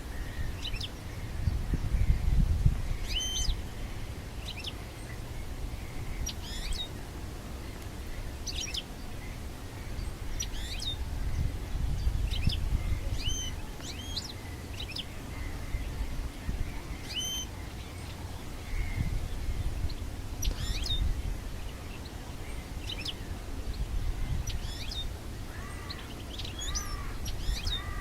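European goldfinch chirping in short, separate high notes every second or two, over a low, fluctuating rumble.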